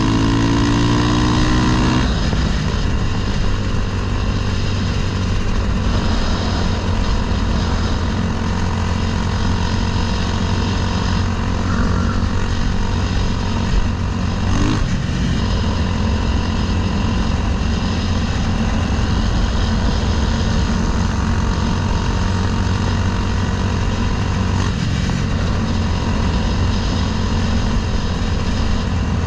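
Honda Grom with a swapped-in CBR300R single-cylinder four-stroke engine running under way. The engine climbs in pitch for the first couple of seconds, then drops and holds a steady note at cruising speed.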